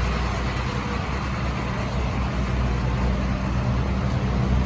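School bus diesel engine idling steadily, a low, even running sound with no change in speed.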